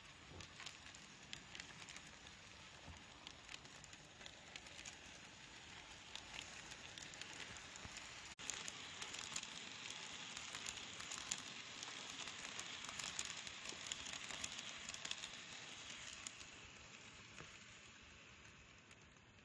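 N-gauge model train running on its track, a rapid patter of small clicks from the wheels over the rails. It gets louder after an abrupt change about eight seconds in, then fades near the end.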